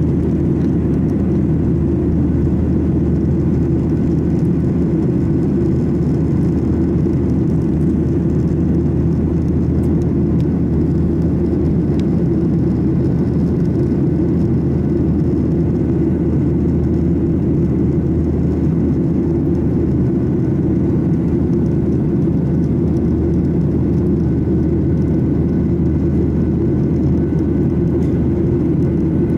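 Steady, loud rumble of an airliner heard from inside the passenger cabin: engine and airflow noise holding constant.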